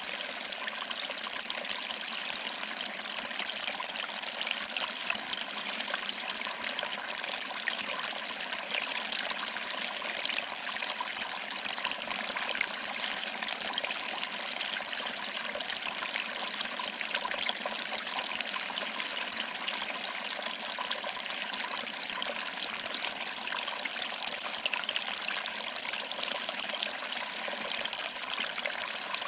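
Small waterfall trickling and splashing over rocks into a pool, a steady unbroken water sound.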